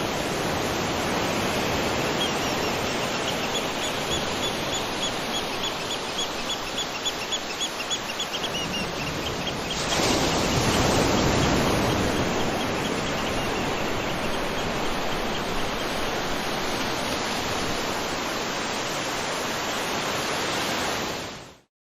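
Beach ambience: ocean surf washing steadily, with a wave surging louder about ten seconds in. Over the first half a rapid run of faint high chirps sounds above the surf. The sound cuts off abruptly near the end.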